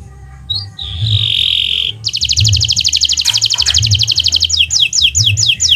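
Kenari Nusantara domestic canary singing: a short chirp and a buzzy held note, then a fast, even trill of about a dozen notes a second, ending in about six slower downward-sliding whistles. Under it runs a low thump about every three-quarters of a second.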